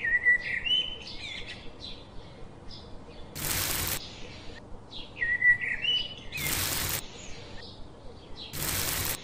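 Birds chirping: short whistled phrases that rise and fall, the same phrase coming round again, with three brief bursts of hiss.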